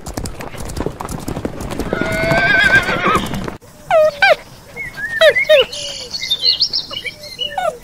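Horse hooves clopping with a wavering horse whinny. About three and a half seconds in the sound cuts abruptly to a run of short, high calls from a different animal, each sweeping sharply in pitch.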